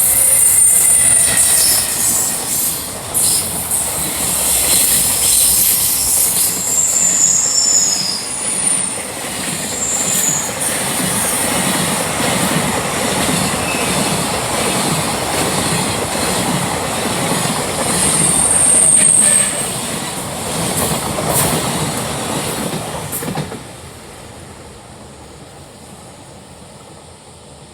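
Freight train wagons rolling past at high speed, a dense rumble of wheels on rail with several brief high-pitched squeals. The noise cuts off suddenly about 23 seconds in as the end of the train passes, leaving a quieter hiss.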